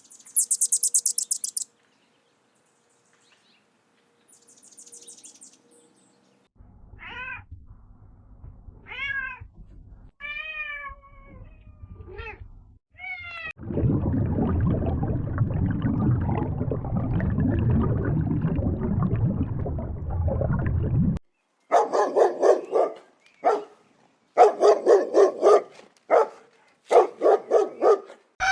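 A run of separate animal sounds. First a brief high buzzing trill, then a domestic cat meowing five times, then several seconds of steady low rumbling noise. Near the end come groups of rapid pulsed calls.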